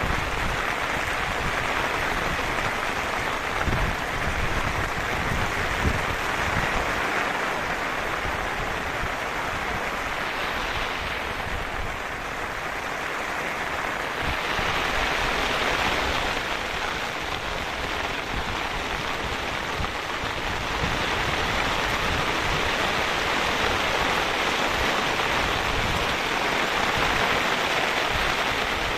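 Steady rain falling, an even hiss of rain on the ground and surfaces, easing slightly about twelve seconds in and then picking up again.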